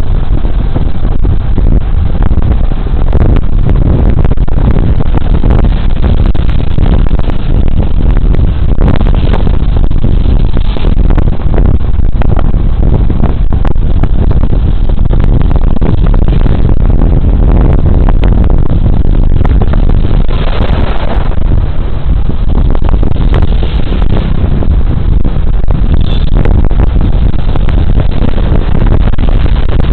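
Steady rush of riding wind buffeting a body-worn camera's microphone, over the drone of a Suzuki Burgman Street 125 scooter's 124 cc single-cylinder engine cruising.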